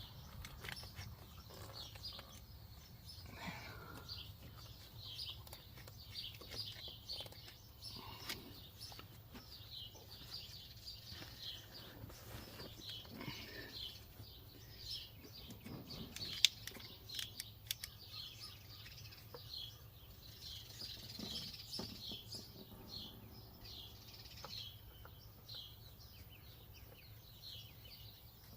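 Birds chirping over and over in short calls, over a low steady hum. There is a sharp click about sixteen seconds in, with a couple of smaller clicks just after.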